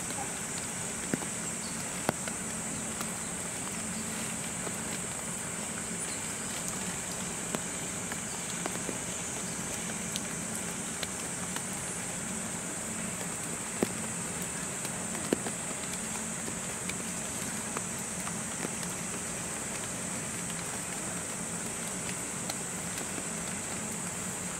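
Light steady rain, with scattered sharp drops tapping now and then over a steady high-pitched hiss.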